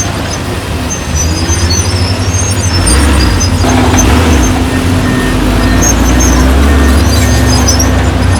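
Heavy diesel earthmoving machinery running hard, growing louder about three seconds in as a steady hum joins it.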